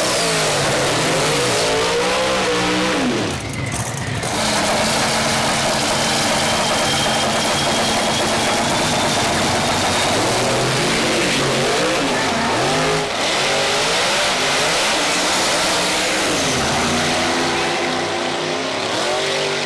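Twin-turbocharged big-block Chevy drag-car engine running hard and revving repeatedly, its pitch climbing and falling again and again, with a short drop about three and a half seconds in.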